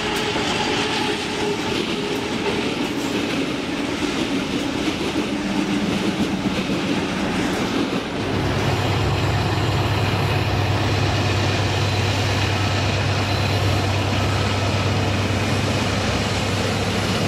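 Freight train rolling past close by, its wagons' wheels clattering over the rails. About eight seconds in the sound changes abruptly to the steady low rumble of diesel locomotives hauling the train.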